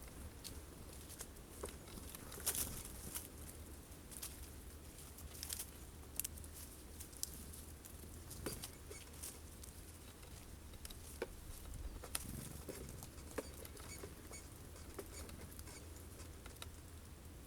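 Irregular sharp taps and clicks of birds pecking at sunflower seeds on a feeder, over a faint low rumble.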